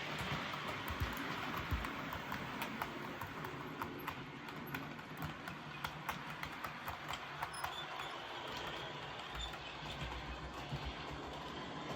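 Accurascale OO gauge Class 37 model running on its DCC sound chip, the small speaker playing the English Electric diesel engine sound, with irregular clicking of the model's wheels over the rail joints.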